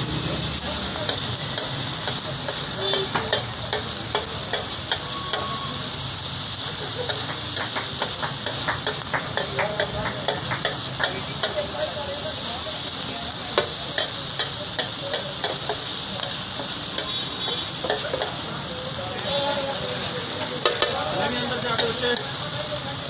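Beef keema with green chillies and tomatoes sizzling in oil on a flat tawa griddle. A metal spatula scrapes and taps against the griddle as the mince is stirred, giving many sharp clacks, thickest in the middle of the stretch.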